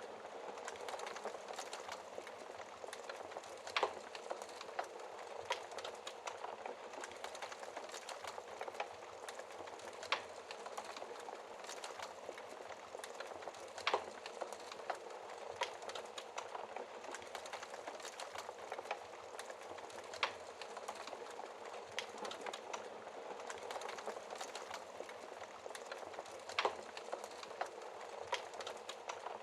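Wood fire burning in a fireplace: a steady soft hiss of flames with frequent small crackles and a few louder pops of burning logs.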